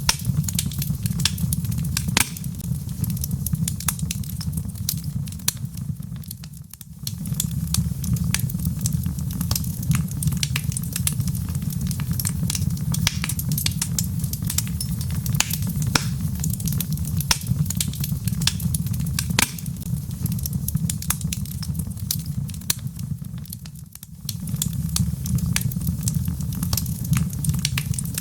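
Burning logs in a fireplace crackling, with frequent sharp pops over a steady low roar of flames. The roar dips and comes back twice.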